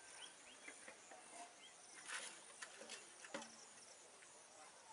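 Faint outdoor ambience with scattered short bird chirps over a low hiss, a brief rustle about two seconds in and a few soft clicks just after.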